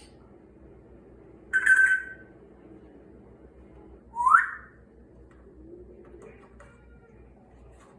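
Congo African grey parrot whistling: a short held note about a second and a half in, then a quick rising whistle about four seconds in.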